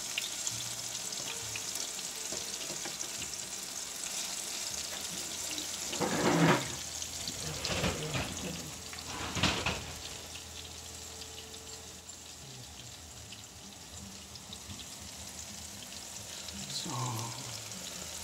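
Ripe plantain slices sizzling and crackling as they shallow-fry in oil in a pan, golden brown and nearly done. A few louder clatters come between about six and ten seconds in.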